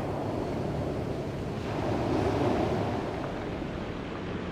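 Sea water washing and lapping, with wind noise on the microphone; the water swells louder about two seconds in, then settles.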